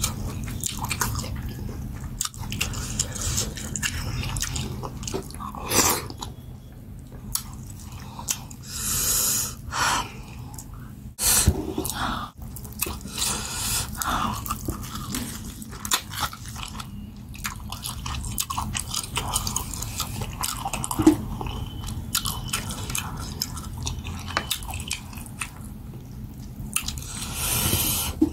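Chewing and biting of goat head meat from pepper soup, with wet mouth clicks and a few louder sucking bursts.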